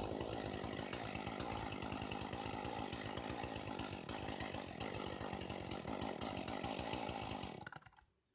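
Two-stroke chainsaw engine running steadily just after a cold start, then dying out near the end: it stalls because the engine has not warmed up yet.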